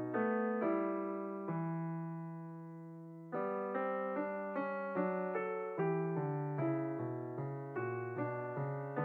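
Background piano music: slow notes, a held chord left to fade out about a second and a half in, then a steady run of notes about twice a second.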